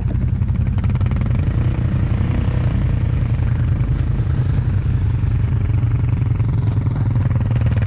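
ATV engine idling with a steady low rumble.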